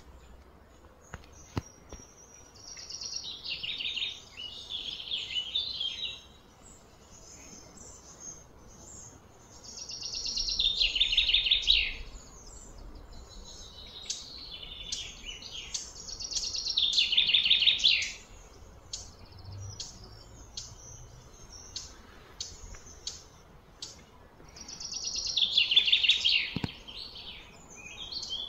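A songbird singing: four loud phrases, each a couple of seconds long and sweeping down in pitch, with short chirps between them.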